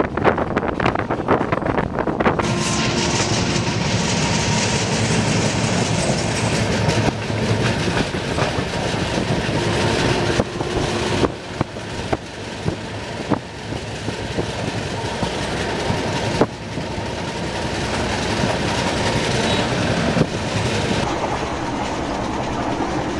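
A passenger train's coaches running along the track, heard from an open coach door. There is a steady rumble with the clickety-clack of wheels over rail joints, and it grows louder and hissier about two seconds in.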